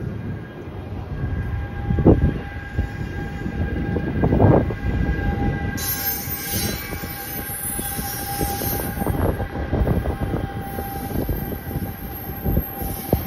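NJ Transit multilevel commuter train passing close: a dense rumble and rail clatter with a couple of heavy thumps, over a steady high whine. The hiss grows brighter as the locomotive pushing at the rear goes by about halfway through.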